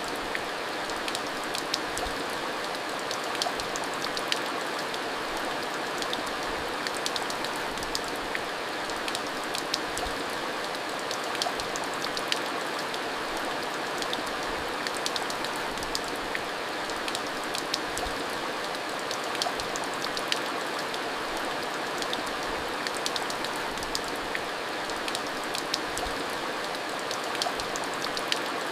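Steady rain falling, with a constant rush and many distinct drops ticking and plinking on surfaces.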